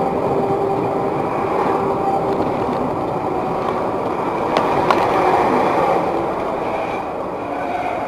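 Steady vehicle running noise with a couple of faint steady tones, and two short sharp clicks about five seconds in.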